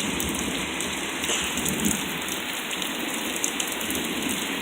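Steady rain falling during a thunderstorm: an even hiss with scattered small drop ticks.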